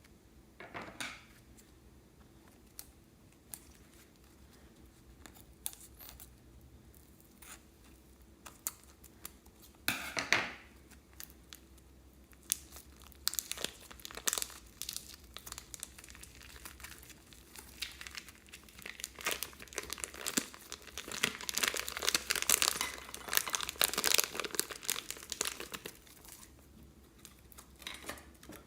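Plastic crinkling and crackling in irregular bursts, with one sharp burst about ten seconds in and the busiest, loudest crinkling in the latter half.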